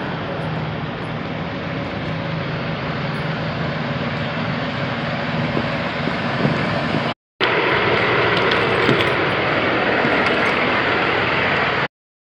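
Steady vehicle running noise, a low engine drone under road and wind noise, as heard on the road in a semi truck. It comes in two stretches, cut off abruptly about seven seconds in and resuming a moment later, with the second stretch hissier.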